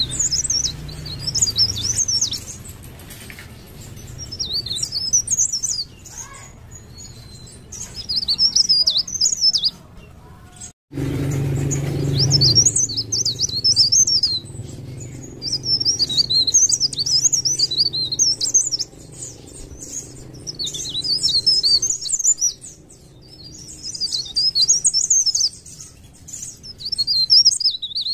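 Cikrak daun songbird singing in rapid, high twittering phrases of two to three seconds each, repeated after short pauses, over a faint low hum.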